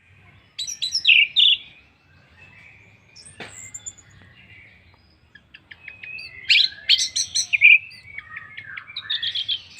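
Orange-headed thrush singing a rapid, varied song of chirps and whistles in several phrases, with a louder run about a second in and another in the second half.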